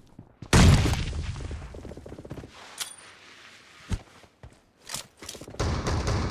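Video-game gunfire: a loud blast about half a second in that dies away over about two seconds, then three single sharp shots about a second apart, and another loud stretch of fire near the end.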